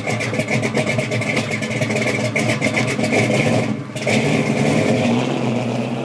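1965 Pontiac GTO's 389 V8 running loudly, its exhaust pulsing rapidly, with a brief drop about four seconds in before it picks up again.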